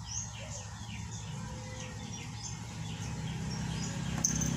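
Small birds chirping repeatedly in the background, quick falling chirps, over a low rumble that grows louder near the end.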